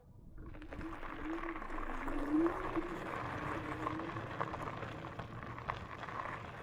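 Riding on an e-bike: a steady rush of wind and tyre noise with scattered light clicks, and a low motor hum that wavers up and down in pitch, setting in about half a second in.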